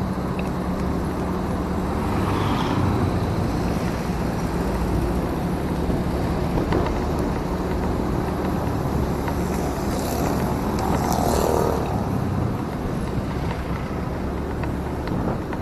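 Motorcycle riding on the road, recorded on the rider's action camera: engine running under steady wind and road noise, with two louder swells of traffic sound, one a couple of seconds in and one about two-thirds through.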